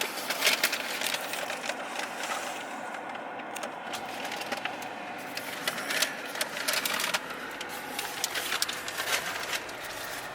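Vehicle moving along: a steady rushing ride noise with many sharp clicks and crackles throughout.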